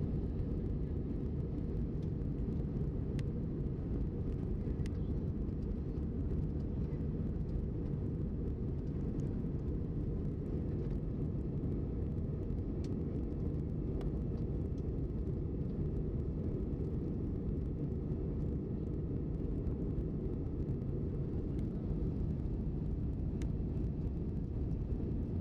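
Steady low drone of an airliner in flight, heard from inside the cabin, unchanging throughout.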